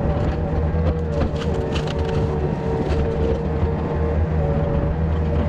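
An engine running steadily at an even pitch, with a few faint clicks and rattles over it.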